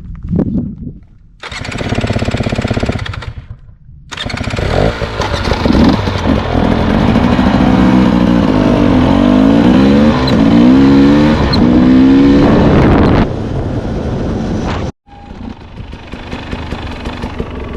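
Dirt bike engine revving up and down while being ridden, its pitch rising and falling repeatedly. A short burst of revving comes first. The engine is loudest in the middle, drops off, cuts out suddenly, then runs on more quietly near the end.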